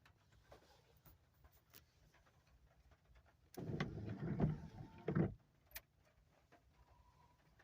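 Car windshield wiper making one sweep across the glass from inside the cabin: the wiper motor runs and the blade rubs across the windshield for about a second and a half, midway through.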